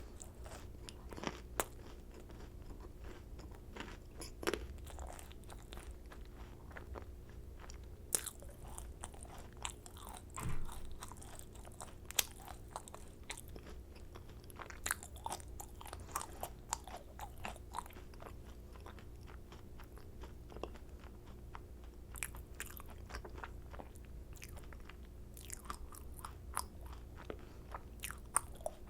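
Close-miked eating of macarons: crisp shells crunching and being chewed in quick, irregular clicks, with a steady low hum underneath.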